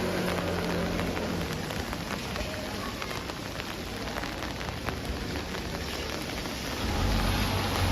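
Steady rain falling on the street, an even hiss with a few sharper drips. A vehicle's low engine rumble fades away in the first second, and another low rumble comes in near the end.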